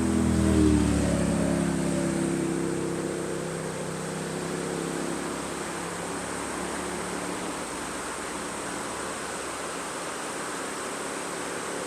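A car passing on the road, its engine note dropping slightly in pitch and fading away over the first few seconds, over the steady rushing of a waterfall.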